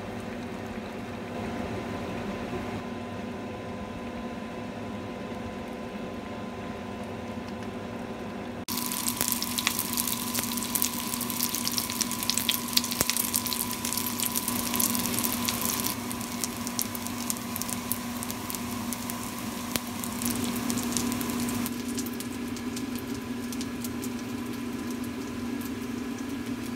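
A pot of stew bubbling on the stove over a steady hum. About nine seconds in it gives way to dumplings frying in an oiled pan, a loud sizzle with dense crackling. The sizzle eases off after about sixteen seconds and runs on more quietly.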